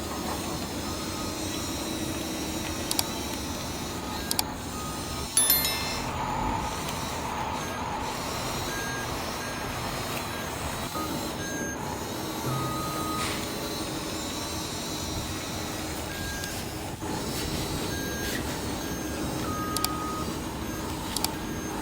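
Remote-control toy excavator working: a steady hum of small electric motors and gears, with short electronic beeps now and then and a few sharp clicks in the first half.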